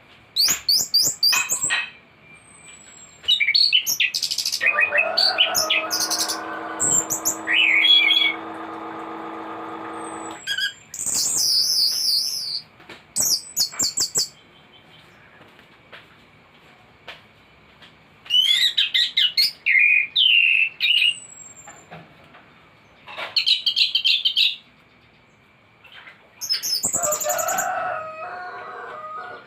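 Anis thrush singing a full, varied song: bursts of fast, high trills and whistles separated by short pauses, with a long, lower, buzzy phrase from about four to ten seconds in.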